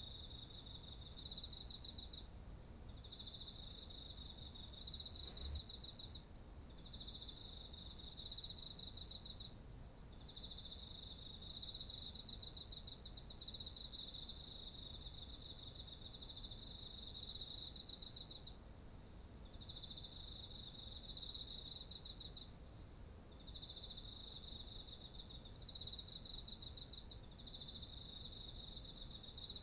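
Chorus of autumn insects singing: a steady, high, unbroken trill under two overlapping pulsed trills a little lower in pitch, each going in phrases of a few seconds with short breaks.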